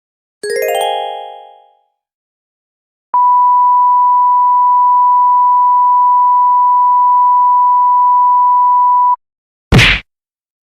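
A sequence of editing sound effects: a short ringing chime that fades out over about a second, then a steady high censor-style beep held for about six seconds and cut off abruptly, then a brief, loud noisy burst near the end.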